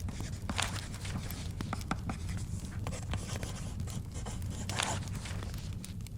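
Pen scratching on paper while taking notes, with two louder paper rustles about half a second in and near five seconds, over scattered fire crackles and a low steady rumble.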